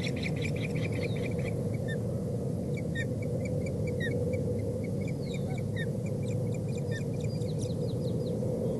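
Osprey at the nest calling: a fast run of high, repeated chirps that trails off within the first second and a half, then scattered single short chirps, over steady low background noise.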